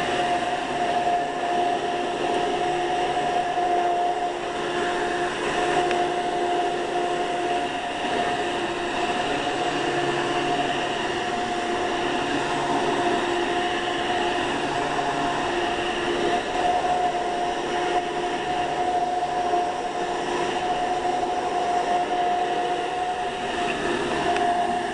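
Hoover Commercial direct-air upright vacuum cleaner running steadily, its motor and fan giving a constant whine that dips briefly now and then, as it picks up spilled bird food.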